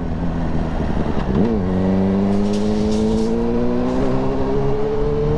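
Suzuki GSR 600's inline-four engine with an Akrapovic exhaust, heard while riding: a quick rise and drop in revs about a second and a half in, then the pitch climbing slowly and steadily as the bike pulls.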